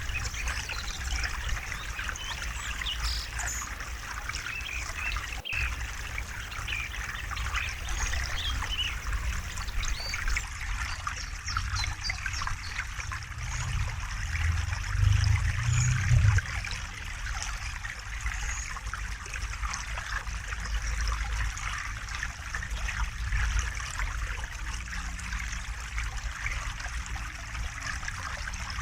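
River water running and trickling over rocks, a steady rush of small splashes over a low rumble. The deeper rumble swells briefly about halfway through.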